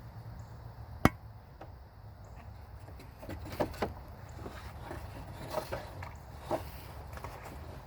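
Wood knocking: one sharp, loud knock about a second in, then a few lighter knocks and crackles, as sticks are handled and set in place.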